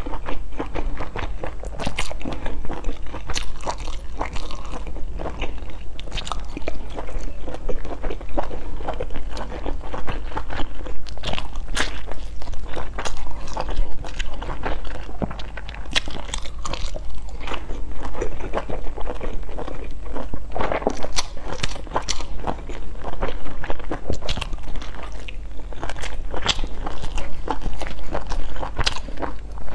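A person biting and chewing large stuffed buns dipped in chili sauce, close to the microphone. Many small, irregular mouth clicks and smacks run throughout.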